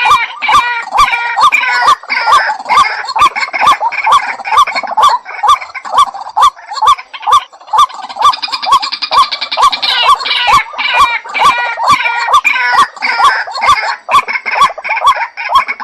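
White-breasted waterhen calling: a long run of short harsh croaking notes repeated about two to three times a second, the kind of call used as a lure.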